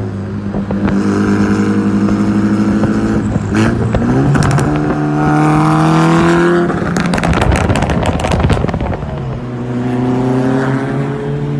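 Mitsubishi Lancer Evolution's turbocharged inline-four engine climbing through the revs twice, with a short dip in pitch about three and a half seconds in. A second or two of sharp crackling pops follows, then a lower, slowly rising note.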